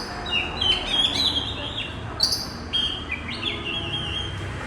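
Birds chirping: many short, overlapping calls and quick falling whistled notes, one after another, over a low steady hum.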